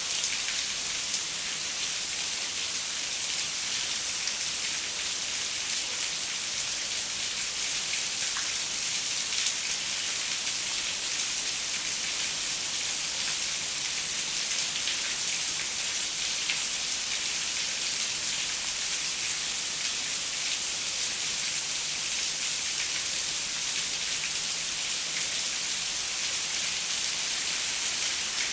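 Steady rain, its many fine drops pattering on a window, an even hiss without thunder.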